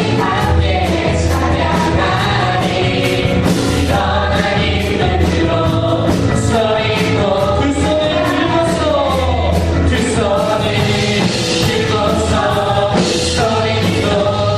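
Praise band performing a worship song: a group of voices singing a melody over a steady beat of drums and bass.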